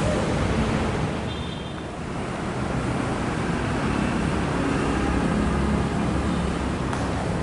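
Steady rumbling and rushing noise of a passenger train, briefly quieter about a second and a half in.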